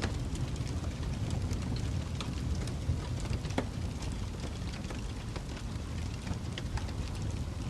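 Fireplace fire burning: a steady low rumble of flame with scattered small crackles and pops, one sharper pop about three and a half seconds in.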